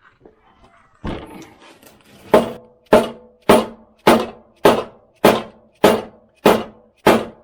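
Dead blow hammer striking metal in a steady series of nine blows, about one every 0.6 seconds, each with a short metallic ring, driving the mower deck's blade-shaft bearing into its new housing. A small clatter about a second in comes before the blows.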